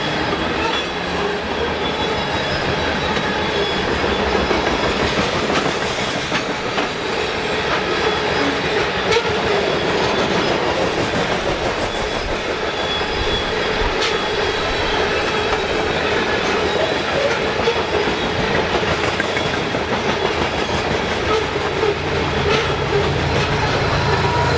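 CSX freight train of loaded gondola cars rolling past, a steady rumble of wheels with clickety-clack over the rail joints and thin squealing wheel tones. A low steady drone comes in near the end.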